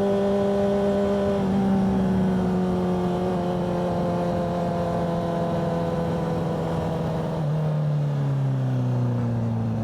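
Motorcycle engine running at steady revs, its pitch easing slowly down and then dropping further about eight seconds in as the bike slows.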